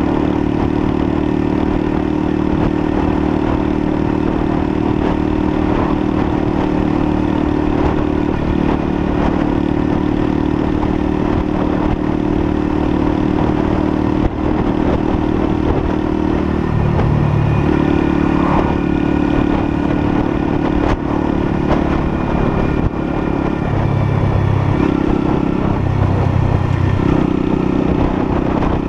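Lexmoto LSM 125's 125cc single-cylinder engine running under way, holding a steady note for the first half, then rising and falling in pitch several times in the second half as the throttle and speed change.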